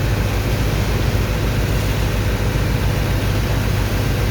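Heavy engine of a sand dredger's pump running steadily: a loud, deep, evenly pulsing drone with a constant hiss over it.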